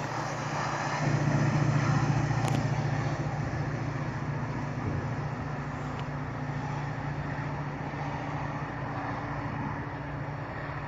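Commuter train pulling away: a steady low engine drone over a rumbling wash of noise, which swells about a second in and then slowly fades as the train recedes.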